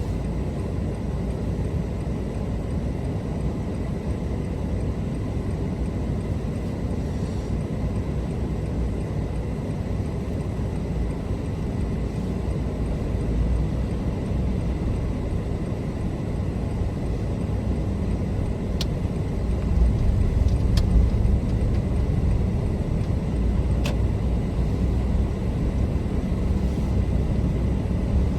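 A car driving on city roads: steady road and engine noise that swells a little in the second half, with a few faint clicks.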